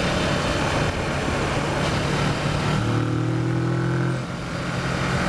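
Kawasaki Versys motorcycle engine running as the bike is ridden, over wind and road noise. About three seconds in the engine note changes to a steadier, lower pitch, and it dips briefly just after four seconds.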